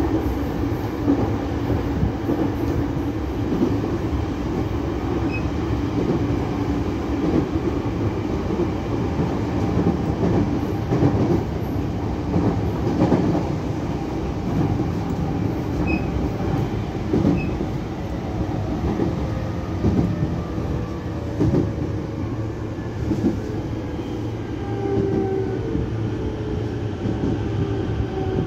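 JR E231-500 series commuter train running, heard from inside the car by the doors: a steady rumble of wheels on rail with a few knocks. In the last few seconds the traction motors' whine falls in pitch as the train brakes into a station.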